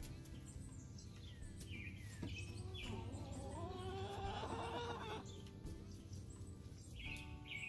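Chickens calling: a hen's drawn-out, pitched call about three seconds in, lasting about two seconds, with short high chirps of small birds before it and again near the end.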